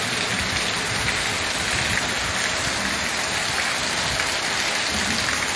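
Steady rain falling on trees, grass and paving: an even, unbroken hiss.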